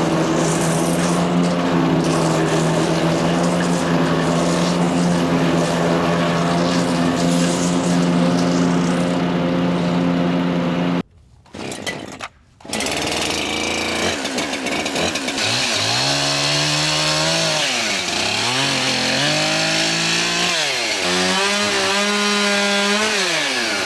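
Wood chipper shredder's Kohler CH440 single-cylinder engine running at a steady high speed, cutting out briefly about eleven seconds in. After that its note repeatedly sags and climbs back as branches load the chipping drum.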